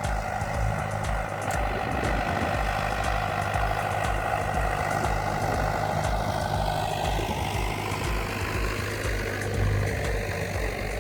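Old Kubota tractor engine running steadily, working in the field.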